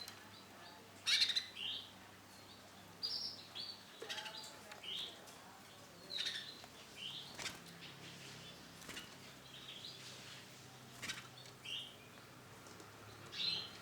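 Male canary giving short, separate chirps about once a second, with a few sharp clicks among them, the loudest about a second in.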